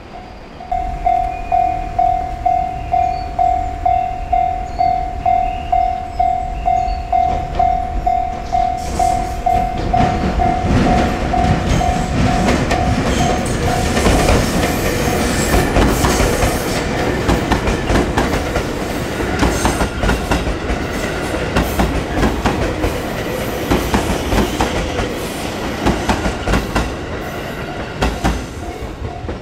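An electric passenger train passes at speed, its wheels clicking over rail joints. For the first half a warning bell rings about twice a second, with one steady pitch, typical of a Japanese level crossing. The bell fades out as the train noise rises.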